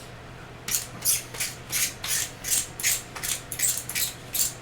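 Pencil sharpener grinding a pencil: rhythmic rasping strokes, about two and a half a second, starting under a second in, as the handle is cranked round.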